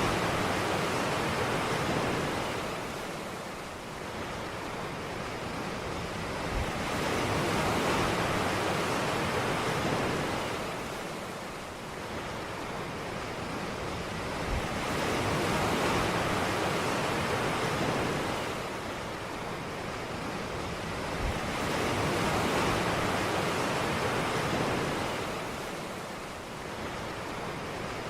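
Ocean surf on a beach: waves breaking and washing in, the rush swelling and fading about every seven to eight seconds.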